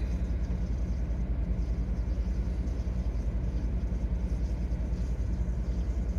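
Steady low engine hum of a car idling, heard from inside the cabin.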